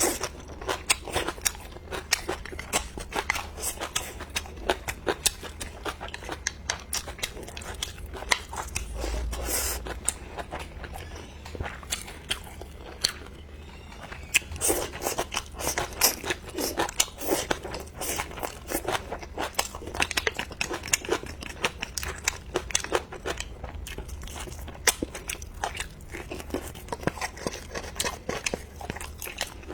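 Close-miked eating: a person chewing and biting food, with a dense, continuous run of small crunches and mouth clicks.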